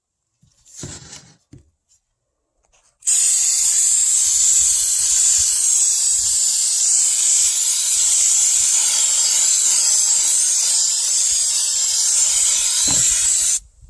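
Aerosol can of paint stripper spraying in one continuous hiss for about ten seconds, starting suddenly about three seconds in and cutting off just before the end. A brief faint rustle comes about a second in.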